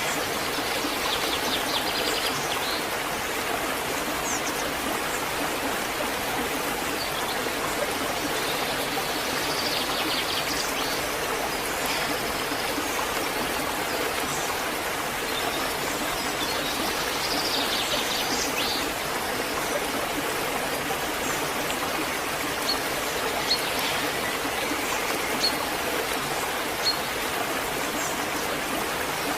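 Waterfall: a steady, even rush of falling and cascading water, with a few short high peeps in the last third.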